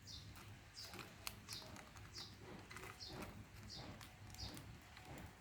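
Faint high chirps from a small bird, repeating about every half second, with a few light clicks.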